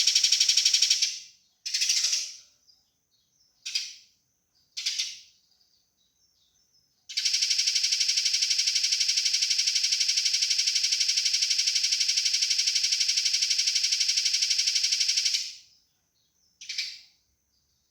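Eurasian tree sparrows' fighting calls: a fast, dense chattering rattle that stops about a second in, three short chirp bursts, then one long rattle of about eight seconds, and a last short burst near the end.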